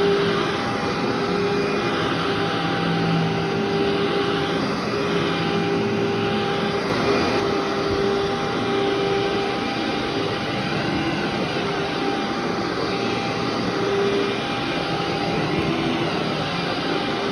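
Vacuum cleaner running steadily over a carpet, its motor tone wavering slightly as it is worked back and forth.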